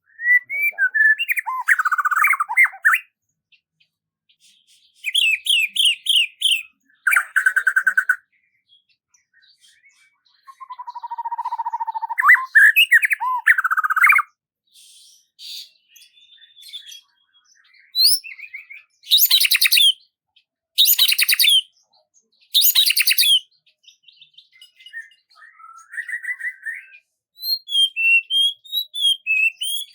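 Songbird singing a series of varied phrases, whistled notes and rapid trills, with short pauses between them. The loudest are three quick, high trills a little past halfway.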